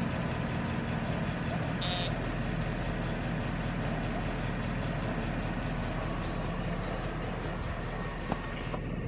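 American woodcock giving its buzzy, nasal 'peent' call once, about two seconds in, with a much fainter call around six seconds in. A steady low engine hum runs underneath.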